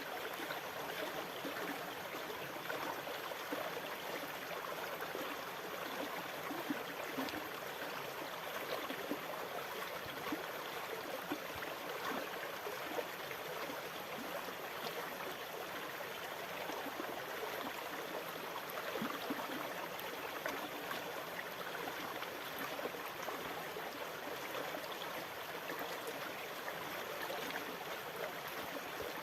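Steady running water with fine splashing and gurgling, its level even throughout without the rise and fall of breaking waves.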